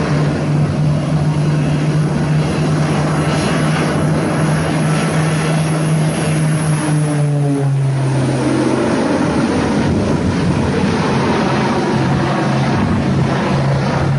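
Propeller aircraft engine running with a loud, steady drone and a low hum, which falters briefly past the middle before settling again.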